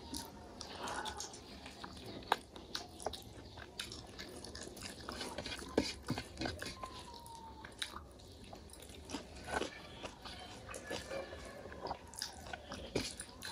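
Close-up chewing and biting sounds of a person eating a meal of rice and chicken by hand, with scattered small wet clicks and smacks.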